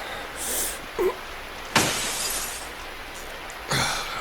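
A glass window pane smashed in: one sudden crash about two seconds in, with a shattering tail that dies away over about a second.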